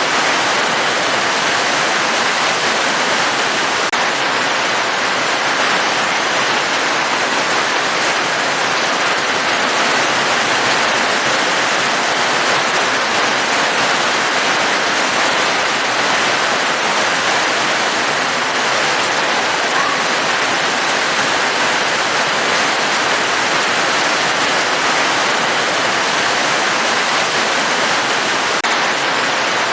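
Steady rush of falling water: an even, unbroken hiss with no separate drops or pauses.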